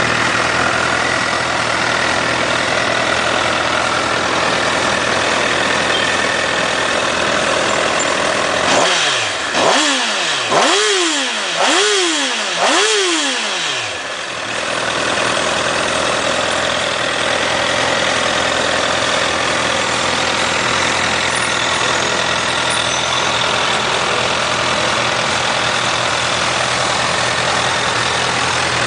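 2008 Honda CBR1000RR's inline-four engine idling steadily. About nine seconds in it is given four quick throttle blips, about one a second, each revving up and falling straight back, before it settles to idle again.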